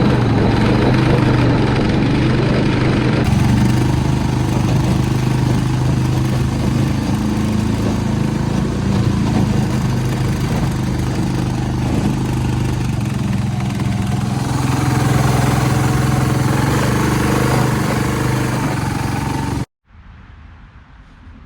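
Predator small gasoline engine, governor removed, running steadily while driving a jet-drive impeller through a direct chain drive, with its exhaust routed out the bottom. It cuts off abruptly near the end, leaving a much quieter background.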